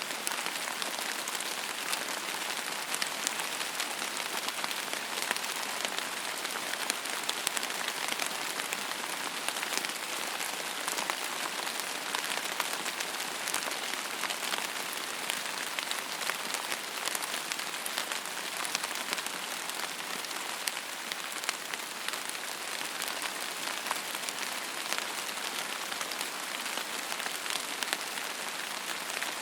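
Steady rain falling, a continuous hiss with many small individual drop ticks pattering through it and no thunder.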